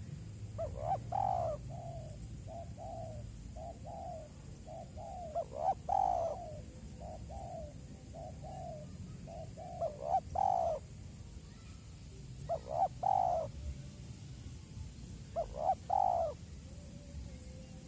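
Spotted dove (tekukur) cooing: a run of phrases of a few short, hollow coos each, repeated every few seconds.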